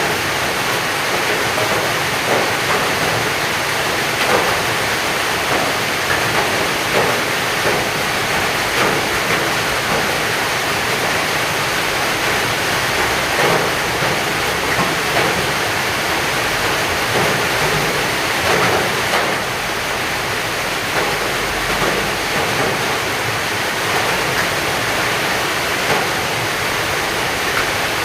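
Heavy rain falling steadily, a dense hiss with scattered louder drop hits.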